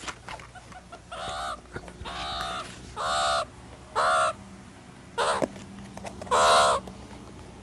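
Meerkat giving six harsh, wavering calls about a second apart, the last one the loudest.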